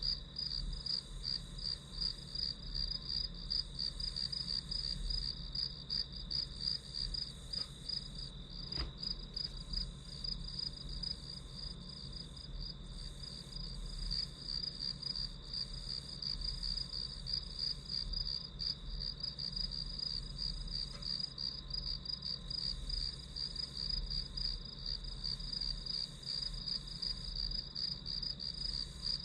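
Crickets chirping steadily in a fast, even pulsing trill, with one faint click about nine seconds in.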